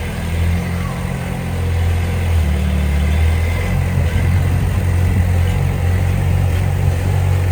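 Heavy-equipment diesel engine running steadily, a low rumble that grows a little louder about two seconds in.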